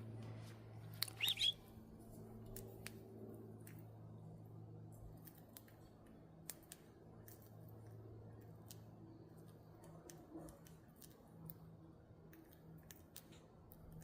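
Soft, irregular clicking and snipping of budgies nibbling at fresh greens, with one short budgie chirp about a second in, over a low steady hum.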